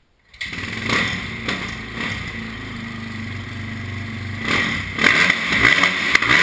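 Motocross bike engine running and revving. It starts about half a second in, after a brief silence, and gets louder from about five seconds in.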